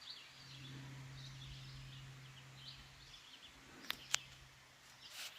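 Quiet outdoor ambience: faint scattered bird chirps over a steady low hum, with two sharp clicks about four seconds in.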